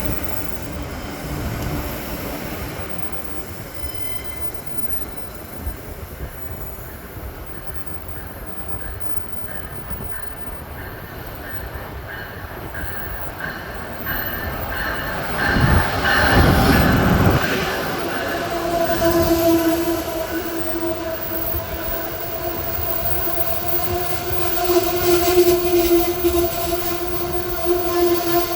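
Passenger train at a station platform: a steady rumble, then a loud surge of noise about halfway through. After that comes a steady two-pitched metallic squeal that holds through the last ten seconds or so.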